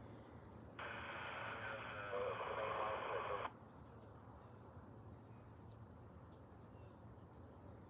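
Railroad scanner radio transmission: a short burst of narrow, tinny radio voice that cuts in about a second in and cuts off abruptly about two and a half seconds later, then only faint hiss.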